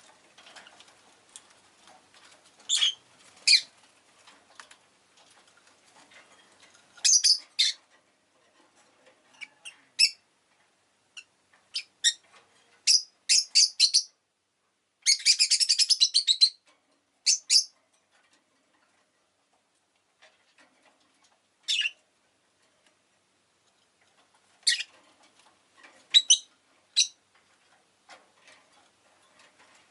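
Rosy-faced lovebird giving short, sharp, high-pitched chirps, singly and in quick clusters, with a dense rapid run of chattering chirps about halfway through and a quiet spell of several seconds after it.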